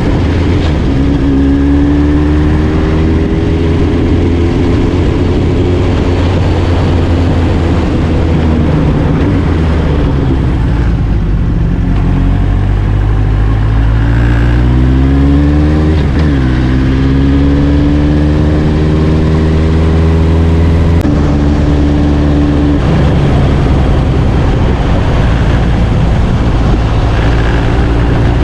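Suzuki Katana motorcycle engines running loudly and steadily. About midway the engine note sinks and then climbs again, and it changes abruptly a few seconds later.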